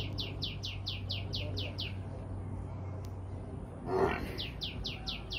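A bird calling a fast run of short, high, down-slurred notes, about six a second. The run breaks off about two seconds in and starts again after a short, louder noise at about four seconds, over a steady low hum.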